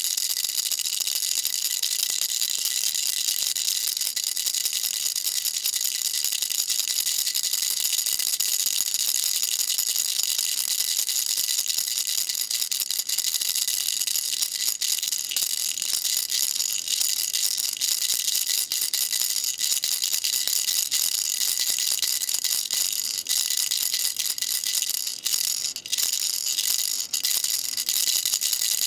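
Baby rattle shaken steadily, giving a dense, continuous, high rattling with a few brief breaks about 25 seconds in.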